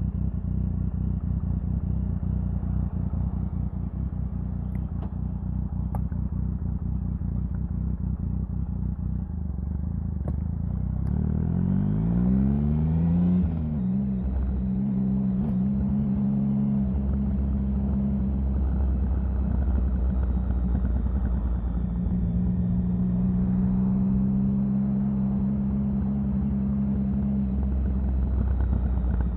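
Triumph Sprint 1050's three-cylinder engine running at a steady note, then rising in pitch as it accelerates about 11 seconds in. The pitch drops sharply about two seconds later and the engine settles into a louder, steady pull.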